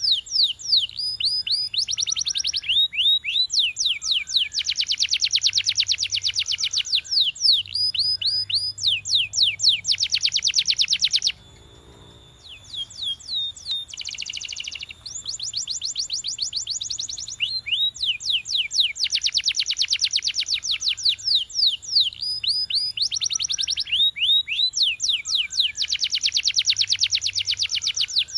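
Domestic canary singing long, rapid rolls of repeated sweeping notes, with a short pause about eleven seconds in before the song resumes.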